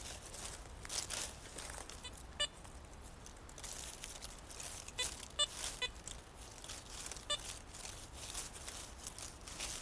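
Metal detector giving several short, pitched beeps while it is swept over the ground, over steady swishing and rustling of footsteps and the sweep through tall grass.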